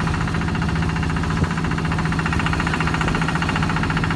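Boat engine running steadily at a constant speed, a dense fast-pulsing hum.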